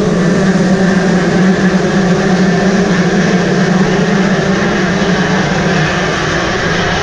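Motocross dirt bike engines running at high revs, a loud steady drone that eases a little about six seconds in.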